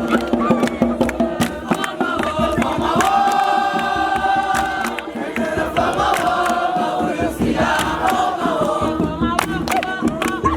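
A group of voices singing together, with several long held notes in the middle, over a steady run of sharp percussive knocks.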